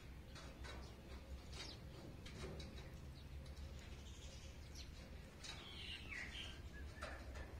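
Faint birds chirping, with short high chirps scattered through and a longer falling call near the end.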